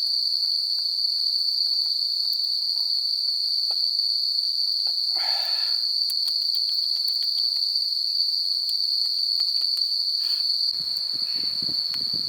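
Insects shrilling in one steady, high unbroken tone, with faint scattered clicks. About five seconds in there is a short pitched call. Near the end a lower crackling rustle starts.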